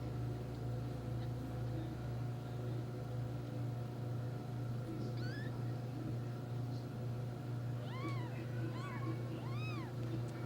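Newborn kittens giving thin high mews: one short rising cry about halfway through, then three short arching mews near the end, the last the longest. A steady low hum runs underneath throughout.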